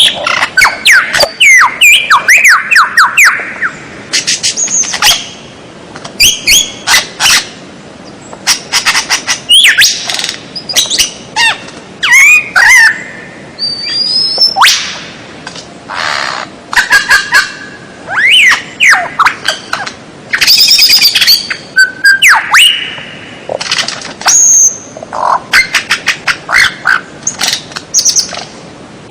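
Masteran birdsong tutor track: a fast medley of varied songbird calls in quick succession. Sharp whistles, chirps, gliding notes and rapid trills are separated by short gaps. It is played to teach songbirds such as the white-rumped shama new phrases.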